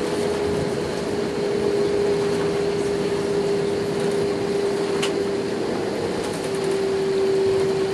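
Cabin noise inside an Airbus A319 on the ground after landing: a steady rumble under a steady hum that sinks slightly in pitch, with a single brief click about five seconds in.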